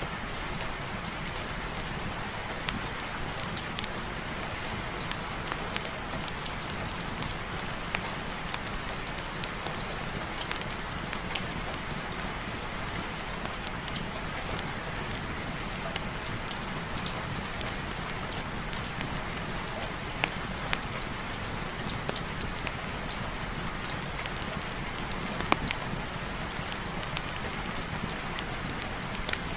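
Steady heavy rain, an even hiss of falling rain with scattered sharp ticks throughout.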